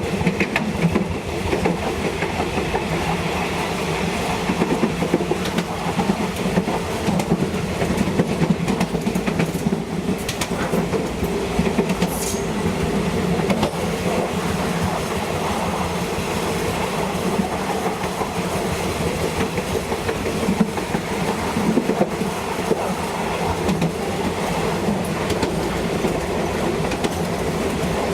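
Thai passenger train running along the track, with a steady rumble of wheels on rail and a continuous clatter of clicks.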